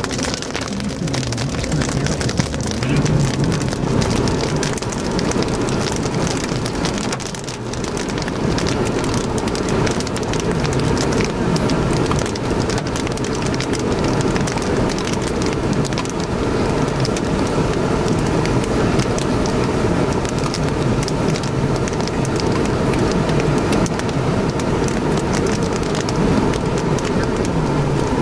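Rain hitting a vehicle's roof and windshield, heard from inside the car: a steady hiss with many small ticks of individual drops.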